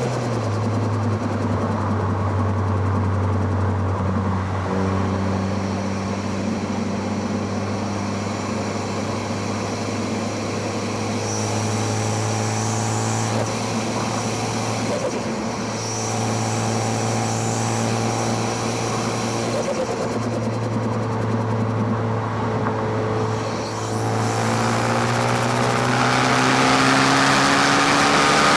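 Car's four-cylinder engine, heard from microphones near the intake and exhaust, running at a steady mid-range speed for most of the stretch with only small changes in revs. Near the end it revs up, then the revs drop off sharply.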